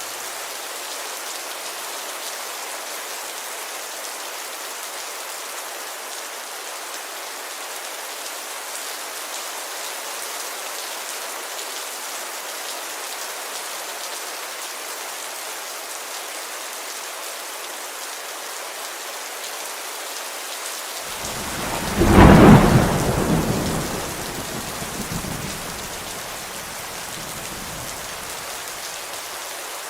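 Steady rain falling on a window, with one sudden clap of thunder about three-quarters of the way through that rumbles away over a few seconds.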